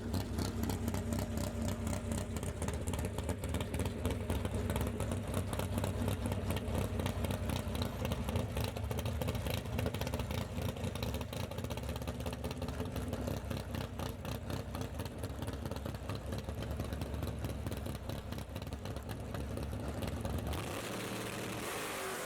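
Big-block V8 engine of a drag car running steadily for about twenty seconds, cutting to a different, thinner sound near the end.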